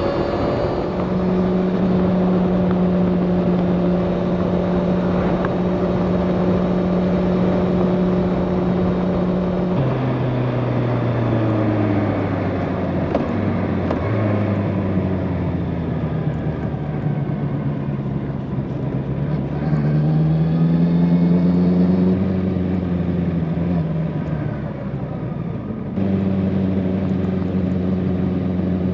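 Honda motorcycle engine under way. It cruises at a steady note, then about a third of the way in the pitch drops. Through the middle the note falls and rises as the bike slows and speeds up, and near the end it returns suddenly to a steady cruising note.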